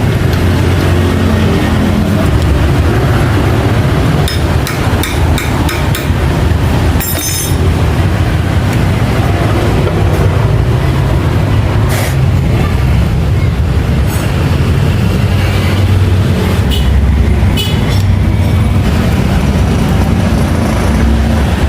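Steady low mechanical rumble of running engines or passing vehicles, with scattered sharp metallic clicks and taps now and then.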